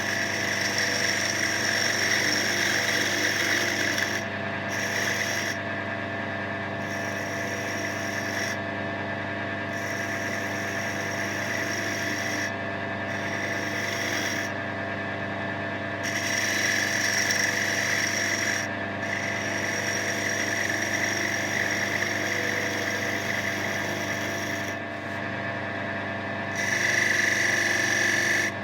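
Wood lathe running with a steady motor hum while a tool is worked against the spinning oak. The scraping comes in stretches of several seconds, broken by short pauses when the tool is lifted off.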